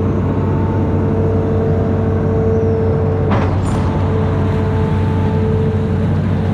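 Amphibious excavator's diesel engine running steadily under load, with a steady whine above the engine drone and a single sharp knock about three seconds in.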